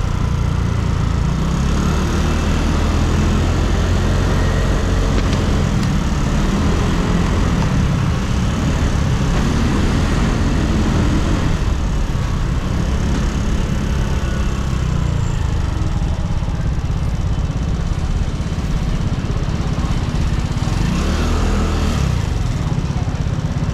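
Yamaha Cygnus X scooter's single-cylinder four-stroke engine running under way. Its pitch rises and falls several times as the scooter speeds up and slows, with one clear rise and fall near the end.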